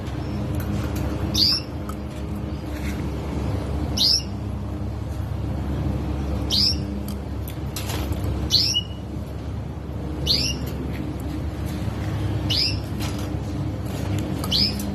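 Caged sparrows calling: a single sharp, falling chirp repeated seven times, about every two seconds, over a steady low hum.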